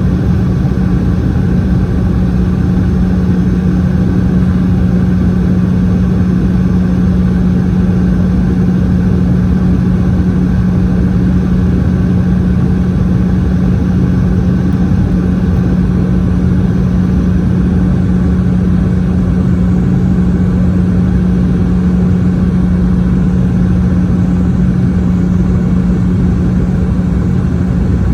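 Steady cabin drone of a Boeing 717's tail-mounted Rolls-Royce BR715 turbofans, heard from a rear window seat: a constant rush of engine and airflow noise with a strong, unchanging hum.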